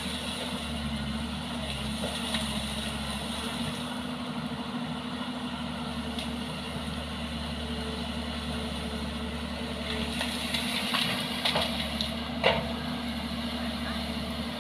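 A vehicle engine running steadily at a constant speed. A few sharp knocks come near the end.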